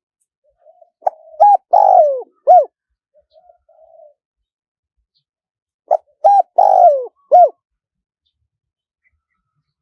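Spotted dove cooing: two loud phrases about five seconds apart. Each is a short note, a hooked note, a long falling note and a final hooked note, with a few soft notes in the pauses. It is a recorded decoy call of the kind played to lure wild doves.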